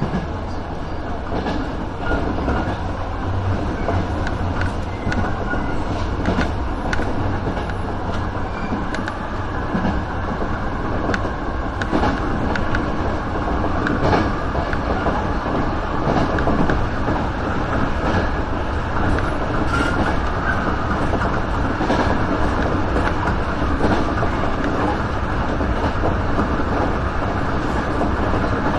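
Sanyo Electric Railway electric train running steadily along the line, heard from inside the front car: a constant rumble of wheels on rail with frequent short clicks as the wheels pass over rail joints.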